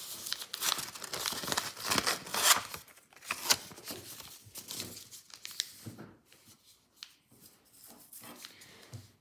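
Paper being handled, crinkling and rustling: dense crackly rustling for about the first six seconds, then only a few scattered rustles.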